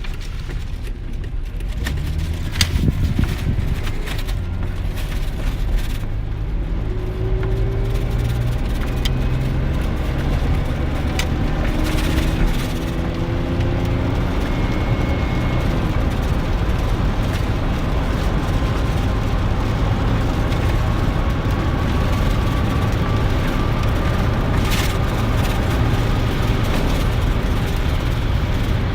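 Inside the cab of a 2001 GMC Sierra pickup on the move: a steady low engine and road rumble whose pitch slowly rises as the truck gathers speed, with scattered light clicks.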